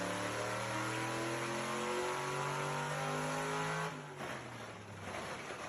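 A vehicle engine accelerating, its pitch climbing slowly and steadily. It cuts off about four seconds in, leaving quieter road or background noise.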